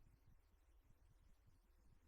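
Near silence: only a very faint low hum and noise floor.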